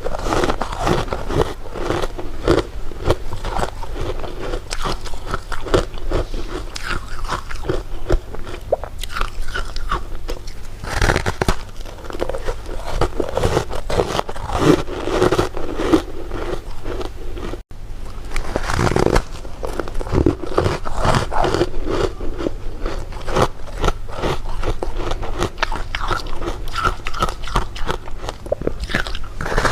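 Close-up eating sounds: continuous biting, crunching and chewing of candy, a dense run of crisp crackles. There is a momentary break about two-thirds through.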